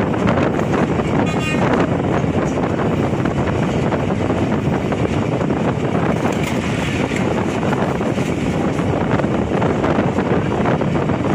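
Steady running noise of a moving passenger train heard from an open coach door: wheels on the rails with wind buffeting the microphone. A brief high tone sounds about a second and a half in.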